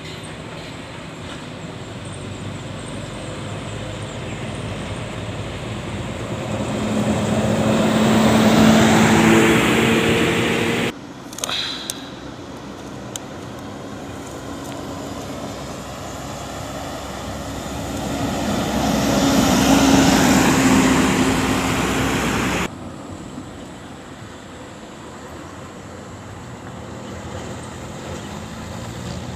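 Heavy road vehicles passing by in traffic, twice. Each pass builds up to a loud peak of engine and tyre noise and then cuts off suddenly, with steady traffic noise between.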